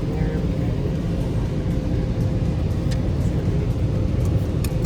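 Steady low rumble of a car with a faint steady hum, with a couple of light ticks near the end.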